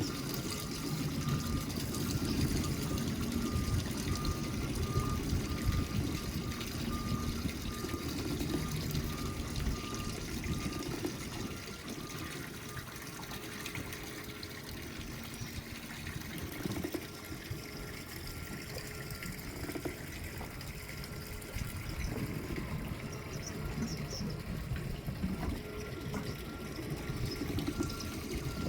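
Water sloshing and splashing continuously, a rough, uneven wash that is heaviest in the low end.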